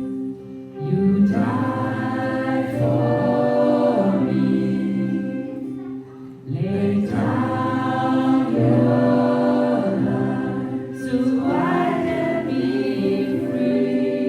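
Group of voices singing a slow worship song in three long phrases, each sliding up into held notes, over sustained instrumental accompaniment.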